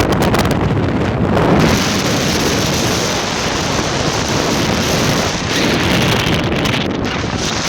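Strong wind buffeting the microphone: a loud, steady rushing noise over a rumble that comes and goes, swelling about a second and a half in.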